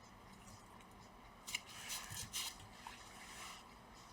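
Faint handling noises from work inside an opened laptop: a few light clicks and rubbing or scraping of small plastic and metal parts as cables are fitted.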